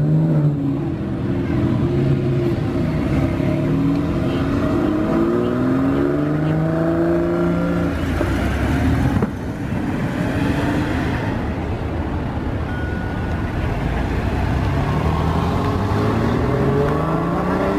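Porsche 911 flat-six engines accelerating hard as the cars pull away one after another, the engine note rising repeatedly in pitch.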